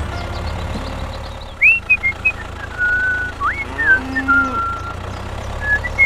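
Steady low vehicle-engine-like hum with whistle-like notes and quick upward glides over it.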